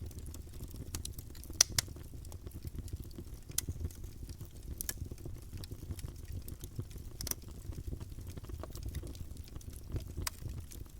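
Campfire burning: wood crackling with scattered sharp pops over a low steady rumble, the two loudest pops close together about a second and a half in.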